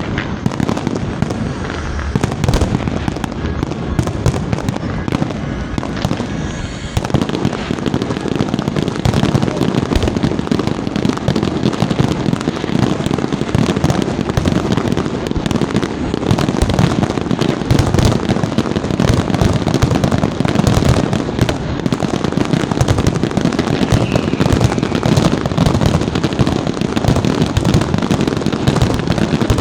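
Fireworks going off in a rapid, continuous barrage of bangs and crackles, getting denser and louder about seven seconds in.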